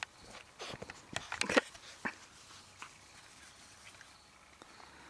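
Yorkshire terrier puppies giving a quick run of short yips and squeaks, bunched between about half a second and two seconds in, the loudest about a second and a half in, followed by a few faint ticks.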